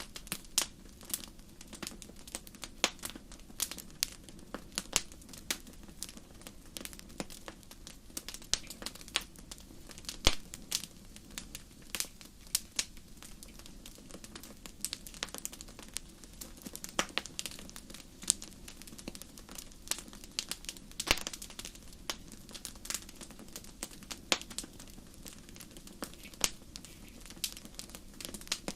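Fire crackling in a fireplace: irregular sharp pops and snaps, often several a second, over a low steady hiss, with a louder pop about ten seconds in.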